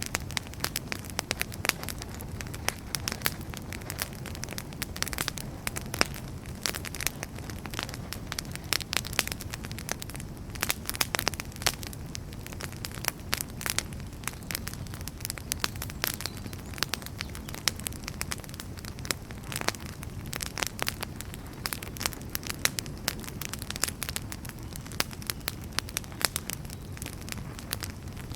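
Wood fire burning with a steady low rumble, crackling and popping with many small sharp snaps.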